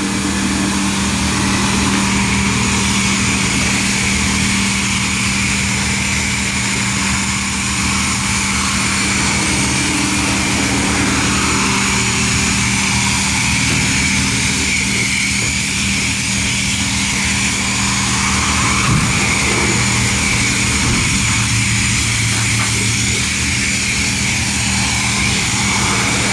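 Steady machine noise: a constant low hum with a loud hiss over it, unchanging throughout.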